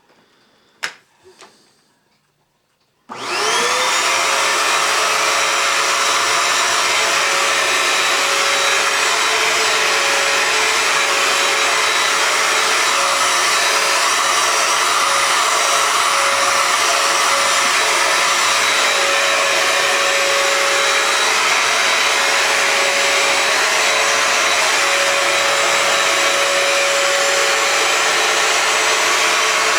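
Hoover FloorMate hard-floor cleaner's vacuum motor: a couple of clicks, then about three seconds in the motor spins up with a rising whine and runs steadily with a loud, even hiss.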